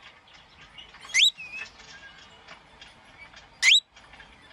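Cockatiel giving two short, sharp rising whistles about two and a half seconds apart, with a softer short note just after the first and faint clicks in between.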